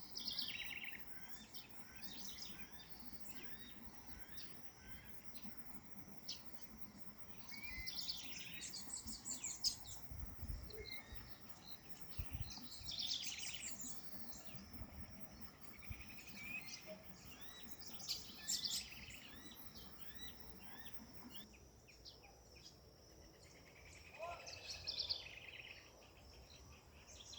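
Songbirds singing and calling in bursts of rapid chirping phrases every few seconds, over a faint steady insect drone.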